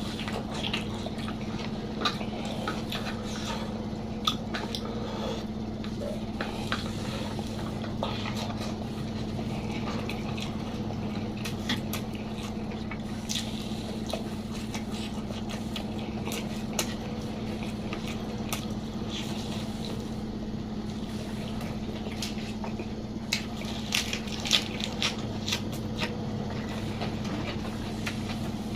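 Close-up eating sounds of a person chewing food, with wet mouth noises and scattered short clicks, the sharpest of them bunched together near the end. A steady low hum runs underneath.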